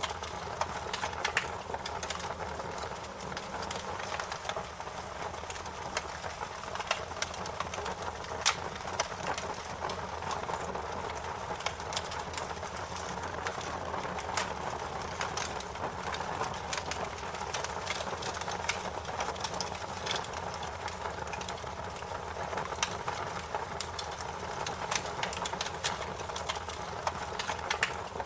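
Fire crackling: frequent irregular snaps and pops over a steady hiss, with a few louder pops standing out.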